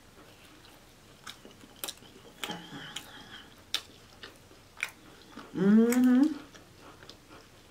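Close-miked chewing of a crispy fried egg roll: wet mouth clicks and small crunches scattered throughout. A faint hummed "mm" comes about two and a half seconds in, and a louder hummed "mmm" of enjoyment, rising in pitch, comes about six seconds in.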